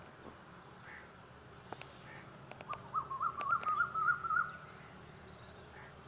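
Birds calling in the morning: a few sharp clicks, then a warbling call that wavers up and down for about two seconds, over a steady low background rumble.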